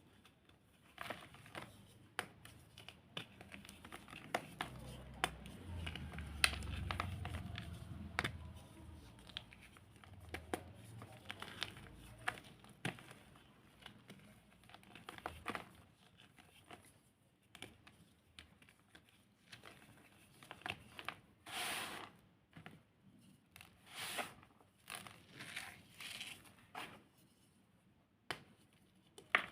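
Dried cornstarch reforms being crushed and crumbled by hand: an irregular run of crisp crunches and crackles. It runs over a low rumble between about five and eleven seconds in, and there are several louder crunches in the second half.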